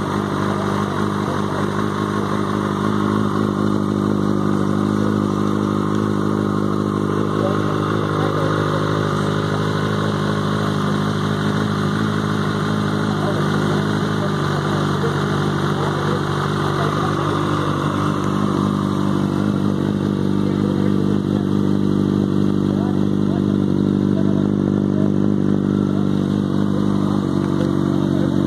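2018 Kawasaki Ninja ZX-6R's inline-four engine running steadily near idle, with slight changes in engine speed about halfway through and near the end.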